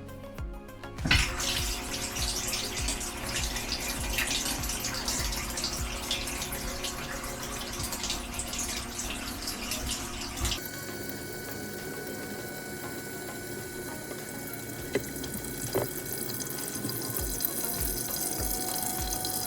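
Whirlpool dishwasher filling with water at the start of a cycle: water rushes in through the inlet valve, starting suddenly about a second in. About halfway through, the rush gives way to a softer, higher hiss.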